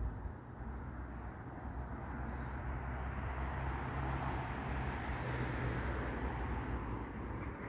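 Distant vehicle noise: a low rumble with a hiss that swells gently and then eases off.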